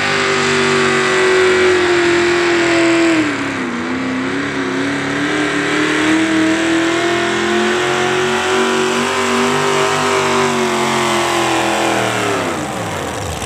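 Pulling tractor's engine at full throttle, dragging a weight-transfer sled down the track. Its pitch sags about three and a half seconds in and recovers, then winds down steeply near the end as the sled brings it to a stop.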